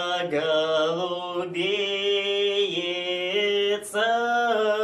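A male voice singing a traditional Russian wedding folk song a cappella, drawing out long held, ornamented notes. He takes a quick breath near the end.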